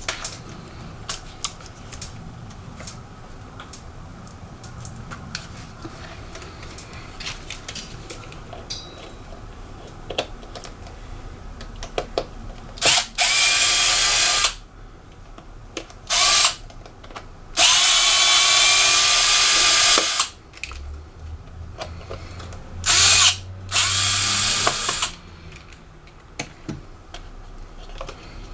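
Electric screwdriver running in five short bursts of one to about three seconds, some with a faint whine rising in pitch as the motor speeds up, on small laptop screws. Light clicks and knocks of parts being handled come before the bursts.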